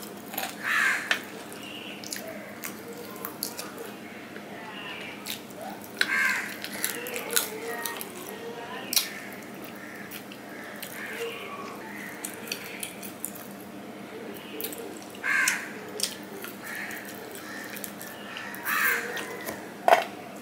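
Close-miked eating sounds from a man eating rice and mutton curry with his hand: wet chewing, lip smacks and clicks. A few louder smacking or slurping bursts stand out, about a second in, near 6 s, and twice near the end.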